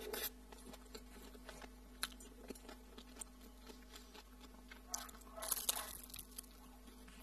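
Close-up eating sounds: quiet chewing with small wet mouth clicks, then a cluster of crunchy bites into a piece of dried toasted bread about five seconds in.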